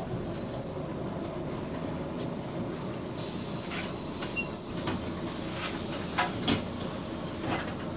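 Bus cabin noise while the bus is on the move: a steady running rumble with interior panels rattling and squeaking. One loud, sharp clunk comes about halfway through, and two smaller knocks follow it.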